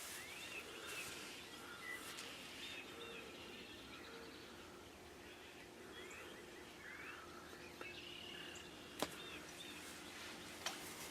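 Wild birds chirping and calling, many short rising and curved notes over a faint steady background. A sharp click about nine seconds in.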